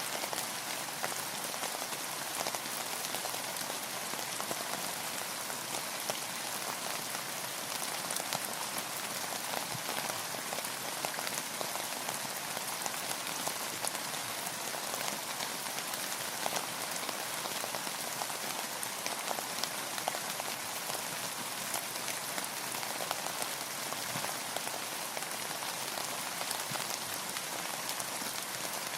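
Steady rain falling, a dense even hiss of drops with many small, sharp patters of individual drops.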